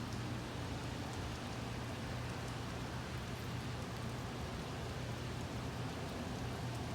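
Steady rain falling in a thunderstorm, an even hiss with faint scattered drop ticks, over a steady low hum.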